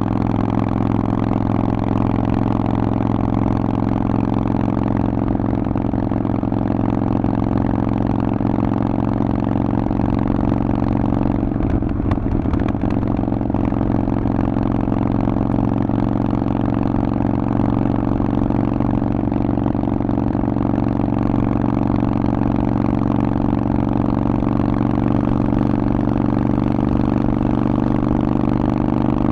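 Harley-Davidson Forty-Eight's air-cooled V-twin running through a Vance & Hines aftermarket exhaust, holding a steady engine speed. A brief rattle comes through about twelve seconds in.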